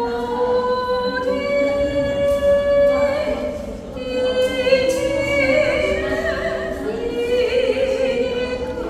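A woman's voice singing slow, held notes with vibrato, moving from note to note every second or so.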